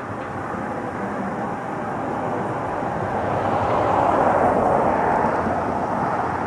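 Rushing noise of a passing vehicle that swells to a peak about four seconds in and then eases off.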